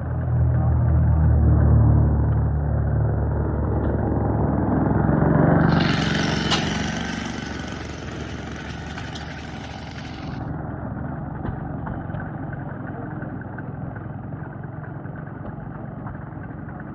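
Small engine of a homemade wooden ride-on tractor running, louder and heavier over the first several seconds, then settling to a quieter, steady run. A hissing noise sits over it for a few seconds in the middle.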